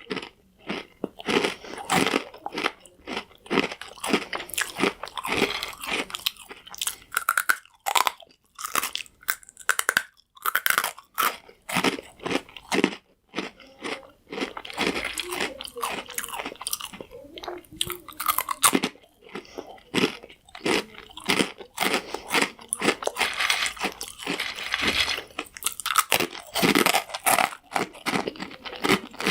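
Close-up chewing of hard, crunchy croutons: dense, irregular crackling crunches, bite after bite, with a few brief pauses.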